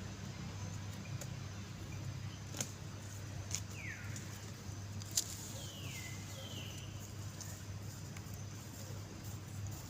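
Three short high animal calls, each falling in pitch, over a steady low hum, with a few sharp clicks.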